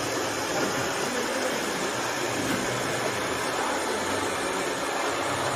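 Steady engine-like running noise from construction vehicles, even throughout, with no revving or impacts.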